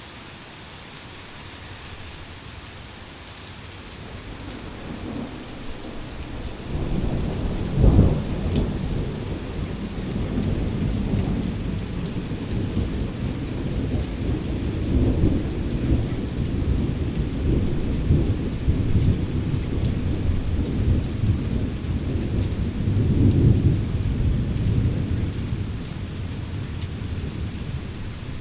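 Heavy rain falling steadily with thunder. A low rumble builds a few seconds in and breaks into one sharp, loud clap, then the thunder rolls on in long low waves for most of the rest and eases off near the end.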